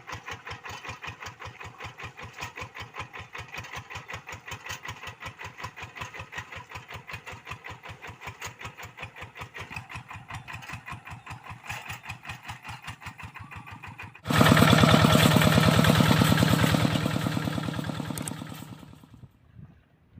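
Kubota RD85DI single-cylinder diesel on a Quick G1000 hand tractor idling with a steady, even chug of about six beats a second. About fourteen seconds in the engine suddenly becomes much louder, then fades away and stops just before the end.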